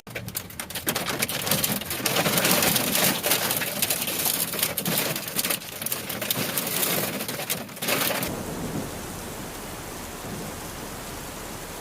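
Heavy storm rain pelting down, dense with sharp impacts on hard surfaces. About eight seconds in it changes abruptly to a softer, steady rain hiss.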